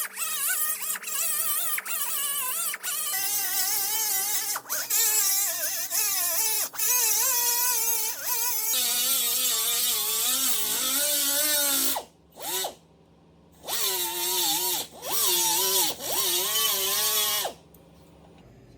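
Angle grinder grinding down welds on car body sheet metal. Its whine sags and recovers as it is pressed against the metal and eased off. It runs steadily, cuts out about twelve seconds in, then comes back in a few short bursts before stopping.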